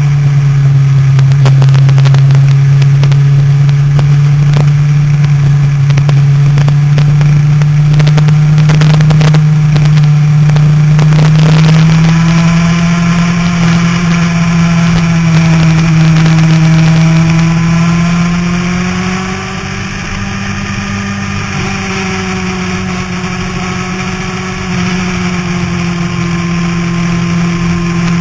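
Motorcycle engine running hard at track speed, with heavy wind rush on the microphone. The engine note stays fairly steady. It drops in loudness for several seconds past the middle, then builds again near the end.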